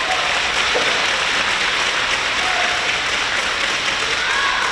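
Spectators applauding steadily in an indoor hall between rallies of a table tennis match, with a few voices calling out above the clapping.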